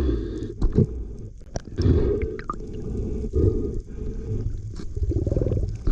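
Muffled sloshing and gurgling of sea water around the camera, surging unevenly, with a few sharp clicks and knocks.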